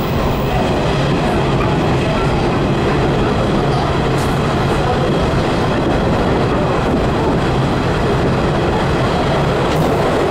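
JR Kyushu 415 series electric multiple unit running through a tunnel: steady, loud wheel-on-rail and running noise heard from the front of the car.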